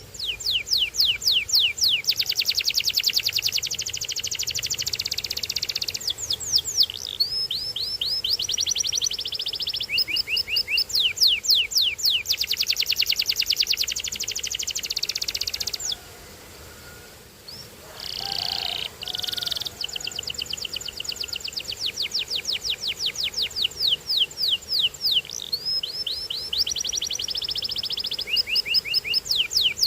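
Canary singing a long, continuous song of fast trills and rolls, each made of rapidly repeated sweeping notes, changing from phrase to phrase, with a brief pause about halfway through.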